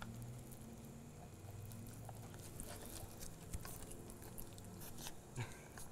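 A person chewing a mouthful of cheese-stuffed burger topped with pastrami: faint chewing with scattered small clicks and smacks.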